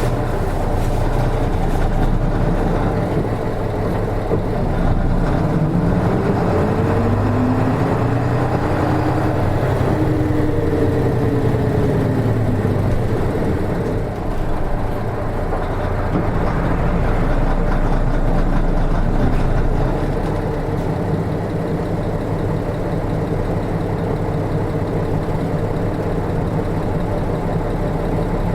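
Nissan Diesel RM route bus's diesel engine running as the bus drives, its pitch rising and falling twice as it pulls and eases off.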